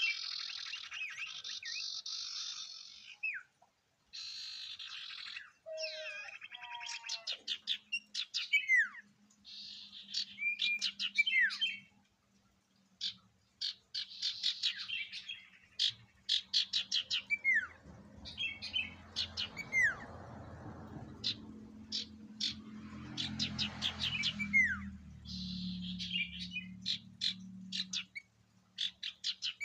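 A sirtu songbird singing: rapid chattering trills and quick runs of sharp ticking notes, broken by short whistles that slide downward. A low steady hum runs underneath from about a quarter of the way in.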